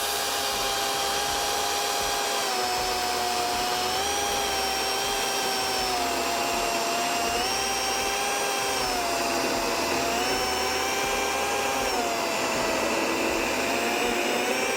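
Electric chainsaw running under load, crosscutting a large square timber in a crosscut jig. The motor whine is steady, its pitch sagging a little and recovering every couple of seconds as the chain bites into the wood.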